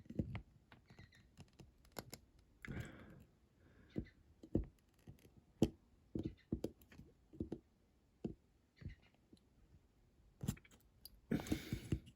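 Small parts of a 1:64 diecast model car clicking and tapping as they are handled and pressed together to get the base and interior to sit flush. Irregular sharp clicks, with a short scrape about three seconds in and again near the end.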